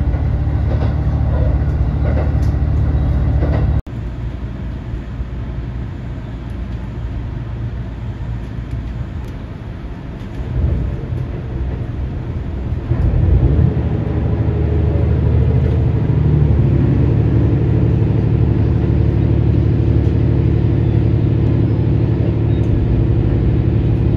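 Diesel-hybrid express train running, heard from inside the carriage: a steady low rumble, with an engine hum that grows louder about thirteen seconds in and holds steady.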